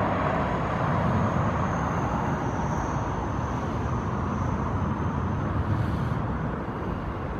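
Steady rumble of motor traffic, with a faint high whine through the middle seconds.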